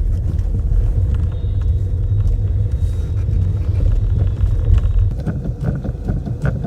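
2015 Skoda Rapid driven over a rough road: a heavy, steady rumble from tyres and suspension, with scattered knocks that come more often near the end. It is the front suspension noise heard only on bad roads, traced to weak front suspension and play in the steering rack, tie rod ends and ball joints.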